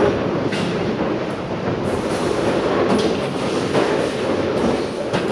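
Bowling alley din: bowling balls rolling down the lanes in a steady rumble, with a few short sharp knocks.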